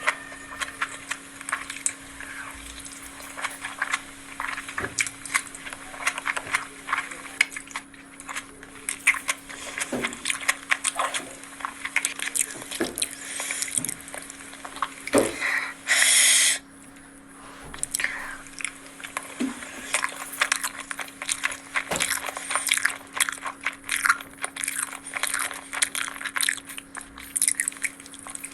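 Close-miked eating: chewing and crunching with many small wet mouth clicks, and a brief loud hissing burst about halfway through. A faint steady hum runs underneath.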